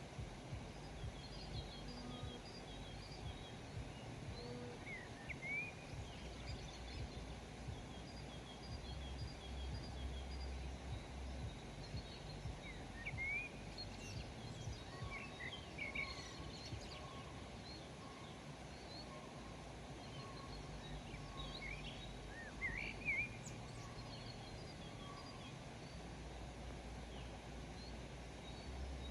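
Several small birds chirping and calling in short, scattered high notes, over a steady low background rumble.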